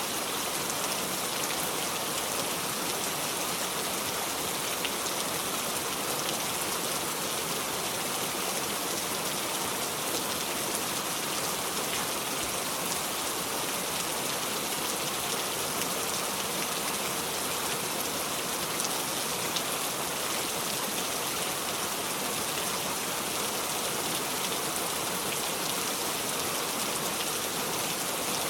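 Steady heavy rain falling, an even hiss with fine patter of drops, no thunder.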